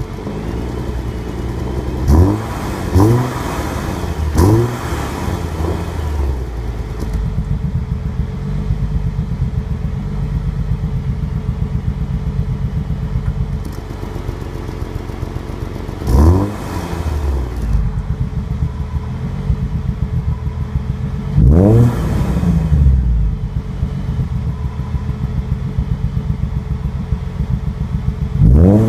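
Ford Mustang 3.7 L Cyclone V6 idling through an aftermarket exhaust of shorty headers, catted X-pipe, Borla over-axle pipes and XForce Varex valved mufflers, with a deep tone. It is blipped three times in quick succession early on, revved once about halfway, held in a longer rev about two-thirds of the way through, and revved again right at the end.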